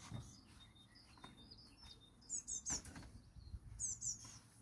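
A small bird chirping: two quick runs of short, high, falling notes, about two and a half and four seconds in.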